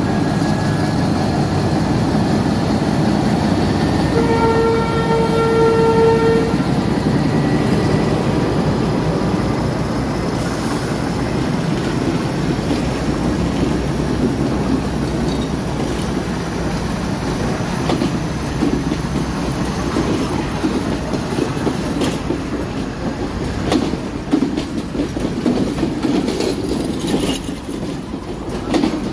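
Diesel-electric M10 locomotive and its coaches running with a steady rumble. The locomotive's horn sounds one pitched blast of about two and a half seconds, about four seconds in. Wheels clack over rail joints later on.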